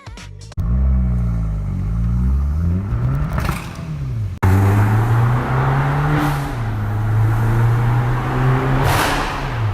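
Abarth 500's turbocharged 1.4 T-Jet four-cylinder engine revving up and down, with a hiss of the turbo's blow-off valve venting about three and a half seconds in. After a sudden cut the engine pulls steadily, and a second, louder blow-off hiss comes near the end as the revs drop.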